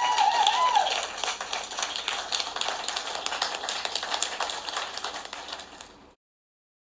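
Crowd applauding, with a few cheering voices in the first second, fading away and stopping about six seconds in.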